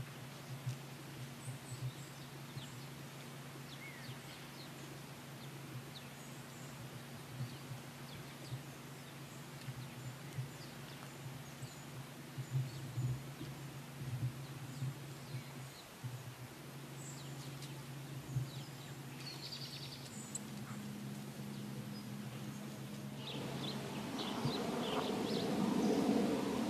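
Outdoor ambience: a steady low hum with faint, scattered short bird chirps. In the last three seconds a louder, noisier sound builds up over it.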